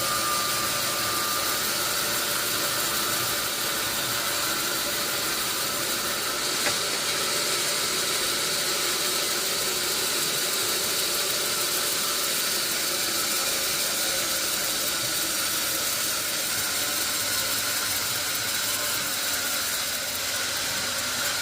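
Steady hissing noise with faint steady tones beneath it, and one brief click about seven seconds in.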